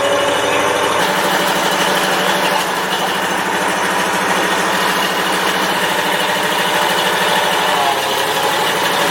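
Engine of a classic military vehicle idling with a steady, even beat; the note changes slightly about a second in and again near the end.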